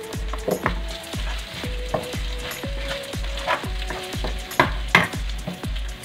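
Shallots, ginger, lime leaves and pandan leaves sizzling in oil in a non-stick wok, stirred with a wooden spatula that knocks and scrapes against the pan, with two louder scrapes near the end. Background music with a steady beat of about two thumps a second plays throughout.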